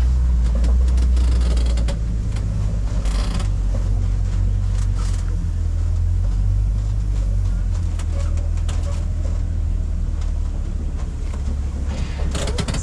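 Safari ride truck driving along, its engine and running gear giving a steady low rumble, with scattered creaks and rattles from the vehicle's body.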